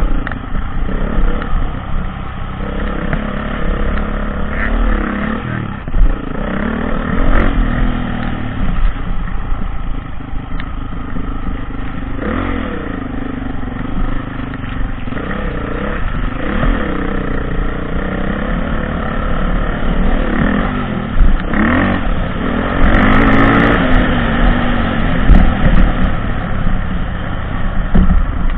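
Dirt bike engine being ridden off-road, revving up and down over and over as the throttle is opened and closed, with a low rumble underneath.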